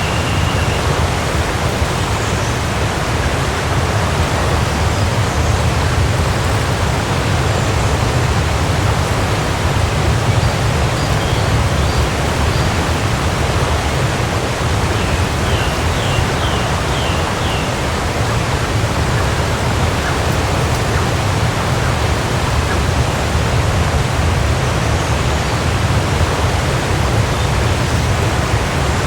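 Waterfall: a steady, dense rush of falling water. A few faint high chirps sound through it about halfway through.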